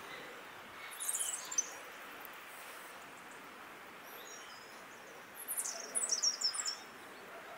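Songbird chirping in short high-pitched phrases, twice: about a second in, and again from about five and a half seconds, over a steady background hiss.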